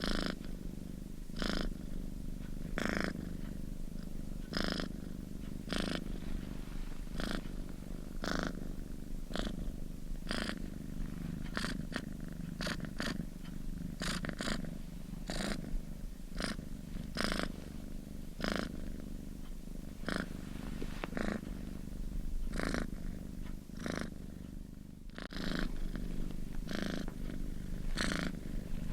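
Domestic cat purring: a steady low rumble with short, breathy pulses about every second and a half.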